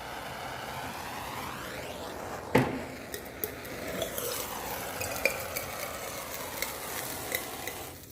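Spilled diesel fuel sizzling and crackling with small pops as it is heated to the point of burning, over a steady hiss whose tone sweeps slowly up and down. A single sharp knock comes about two and a half seconds in.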